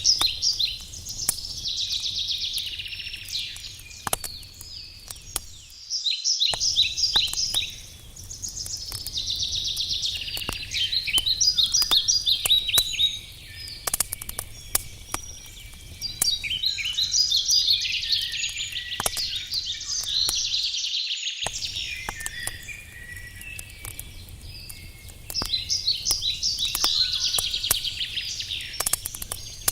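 Songbirds singing in repeated chirping, trilling phrases over the sharp, scattered crackles and pops of a wood campfire. The sound cuts out completely for a moment twice.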